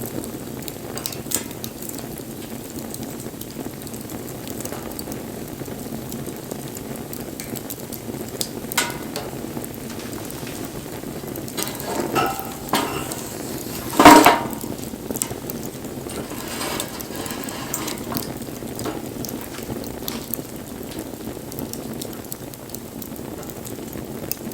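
Wood campfire burning with a steady hiss and crackle, broken by sharp pops; a few come together just past the middle, and the loudest pop follows soon after.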